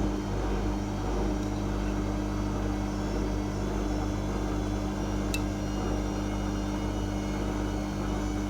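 Whirlpool Indiana 1400 front-loading washing machine running mid-cycle: the drum motor keeps a steady, even hum with no speed change. A single short click sounds about five seconds in.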